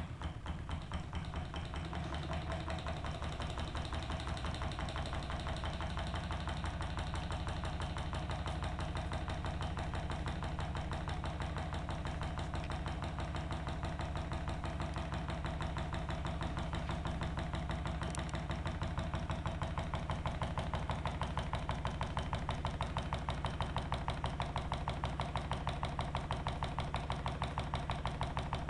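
Homemade hot-air Stirling engine made from a drink can, running with a fast, even rhythmic ticking over a steady low hum. It gets a little louder partway through.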